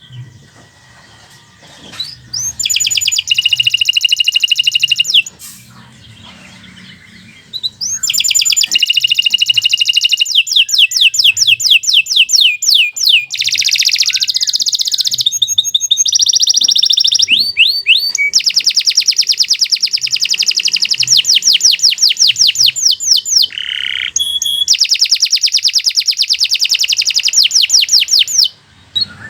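Domestic canary singing long phrases of rapid, high trills of repeated notes. The song starts about two seconds in, breaks off briefly, then runs on almost without pause until just before the end.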